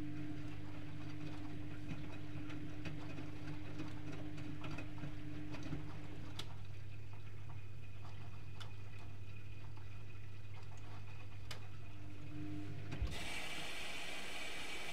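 Privileg Multispar 5110 washing machine running a 75 °C boil wash: a steady low hum with scattered light ticks, which cuts off with a click about 13 seconds in and gives way to a steady hiss.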